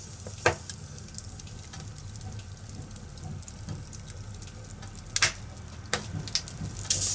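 Fire burning in a fireplace: a steady low hiss of flames with a scatter of sharp crackles and pops, several close together in the second half.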